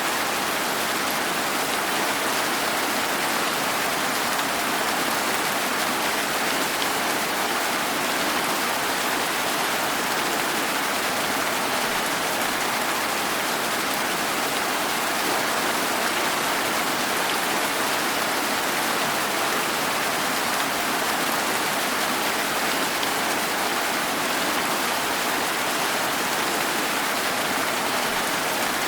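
Steady rain falling, an even, unbroken wash of sound with no single drops, thunder or other events standing out.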